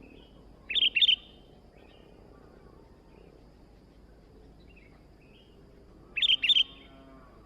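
Sooty-headed bulbul calling: two short, loud phrases of a few quick notes, about five seconds apart, with fainter chirps between them.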